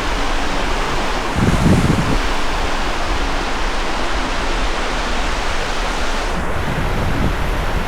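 Sea surf washing steadily onto a sandy beach, with wind buffeting the microphone in a brief low gust about a second and a half in.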